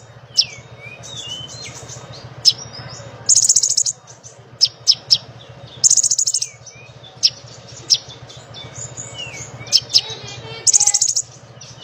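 A konin songbird singing busily: rapid high buzzing trills about half a second long, repeated three times, broken up by sharp chips and short down-slurred whistles. A steady low hum runs underneath.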